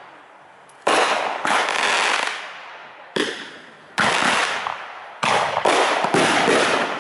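Aerial firework shells bursting: about seven sharp bangs in quick succession, each trailing off in a rumbling echo over a second or so.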